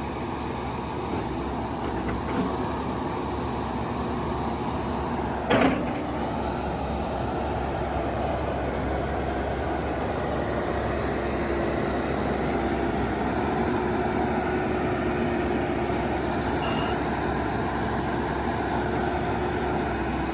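JCB 215E backhoe's diesel engine running steadily as the machine works, with one sharp metallic clank about five and a half seconds in. A faint steady whine comes in about halfway and holds.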